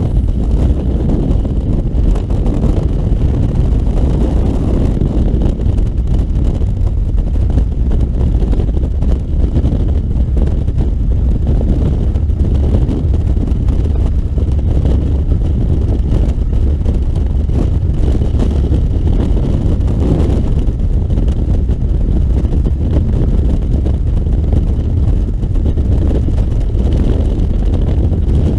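Loud, steady rush of freefall wind buffeting the microphone, heaviest in the low rumble.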